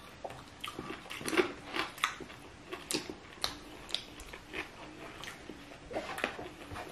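Close-up chewing and biting of crunchy food, with irregular crisp crunches about twice a second.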